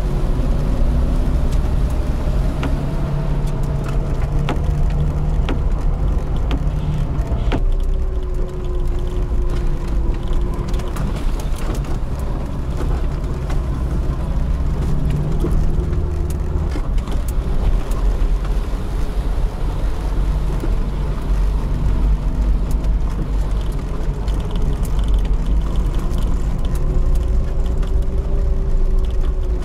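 Lada Niva's four-cylinder engine running under load at low speed over a rough forest track, its pitch rising and falling with the throttle. Frequent short knocks and clicks are heard over the engine.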